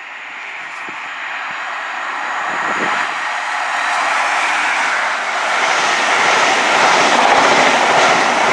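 High Speed Train with Class 43 diesel power cars running through the station without stopping, its engine and wheel noise growing steadily louder over the first few seconds as it approaches, then staying loud as it passes.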